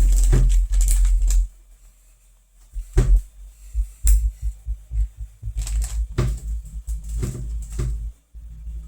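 Handling noise while yarn is cut and the crochet piece worked by hand: low thumps and rumble at first, then a string of separate clicks and taps.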